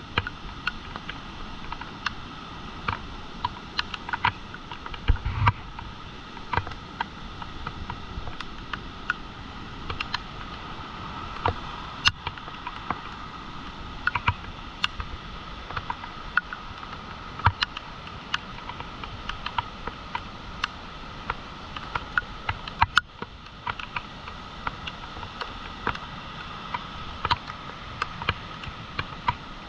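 Steady rush of a flooded, swollen river pouring past the mill, with frequent irregular sharp clicks and taps and a low thump about five seconds in.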